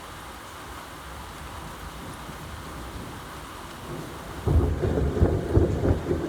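Steady rain hiss, then about four and a half seconds in a loud, deep rumble of thunder starts suddenly and continues.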